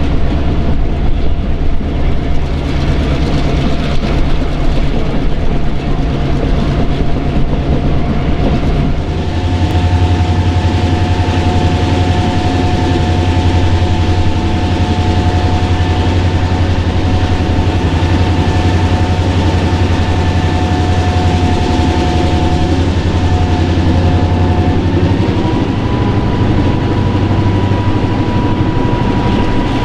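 Train running with a steady low engine drone and a faint clatter of wheels. The drone becomes louder about nine seconds in, with a few steady tones above it.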